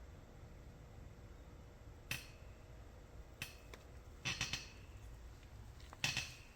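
A few sharp, short clicks and taps of small hard parts and tools being handled during model building: single clicks about two and three and a half seconds in, a quick run of three or four a little later, and a louder double click near the end, over faint room tone.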